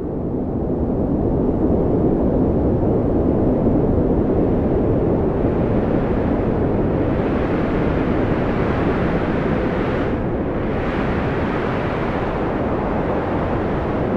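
Strong wind blowing steadily with a deep rumble, swelling a little in the first couple of seconds and gusting higher in pitch through the middle.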